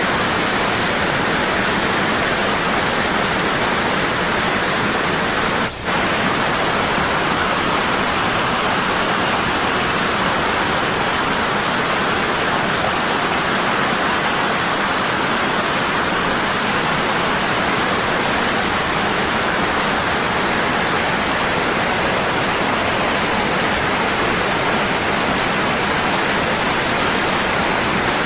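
Waterfall falling heavily and constantly, a steady rush of water, with a momentary dip in level about six seconds in.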